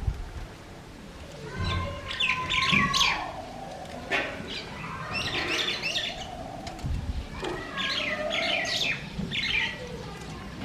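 Birds chirping in three bursts of quick, high chirps, with lower calls between them.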